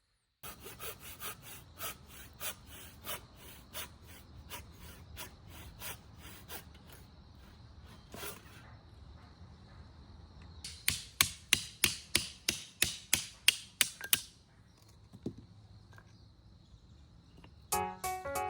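Hand work on wood: quick, regular strokes at about three a second in two runs, the second run louder. Music begins near the end.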